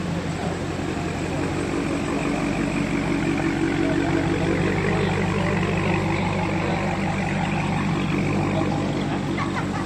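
Car engine idling with a steady low rumble, growing slightly louder for a few seconds midway.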